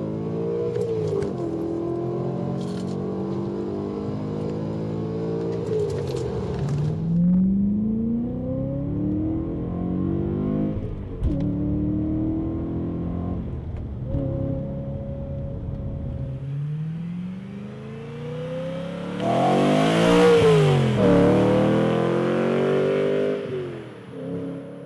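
BMW E92 M3's V8 running through an aftermarket stainless steel exhaust, accelerating hard with its pitch climbing through several gears and dropping back at each shift. Past the middle it builds to a loud pass-by, its pitch rising and then falling as it goes past.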